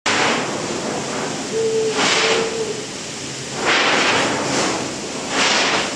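Storm wind rushing, swelling and easing in gusts about every two seconds, with a brief whistle-like tone about a second and a half in.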